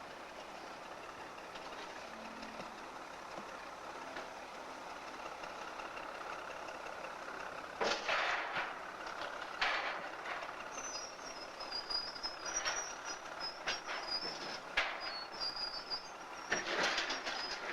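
Locomotive working with coal cars: steady engine noise, then from about eight seconds in a series of sharp clanks and knocks, with a thin high-pitched squeal coming and going in the middle.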